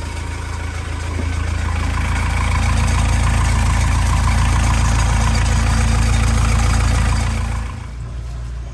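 Sailboat's inboard marine engine running steadily at idle just after starting, a strong low rumble that grows louder about a second in and drops back near the end.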